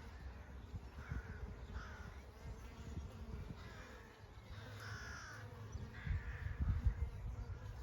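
Honey bees buzzing in a faint steady hum, while a bird gives short harsh calls several times, spread through the stretch.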